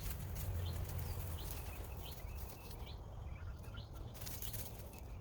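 Small bird chirping in short, rising notes about once or twice a second. A steady low rumble and light rustling ticks run underneath.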